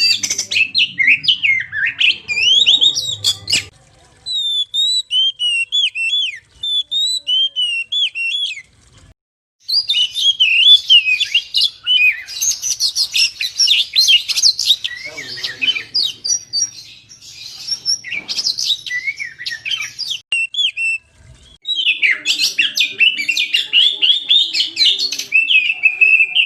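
Oriental magpie-robin (kacer) singing a fast, varied song of whistled and chattering phrases. It goes softer with spaced notes a few seconds in, then comes back dense and loud, with short breaks around nine and twenty-one seconds.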